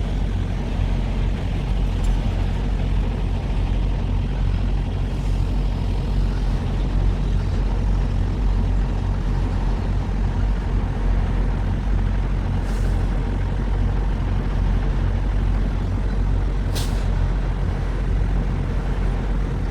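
Heavy truck engine running steadily, a deep even drone, with two brief hisses of air from the air brakes in the later part.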